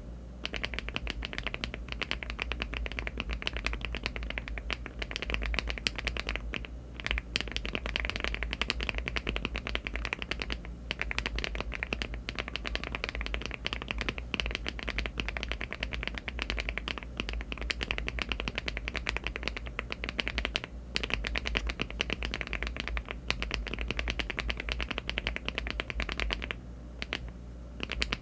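Fast, continuous typing on a LEOBOG Hi75 aluminium mechanical keyboard fitted with HMX Cloud switches (63.5 g) and Cherry-profile keycaps. The dense run of keystrokes breaks off briefly a few times.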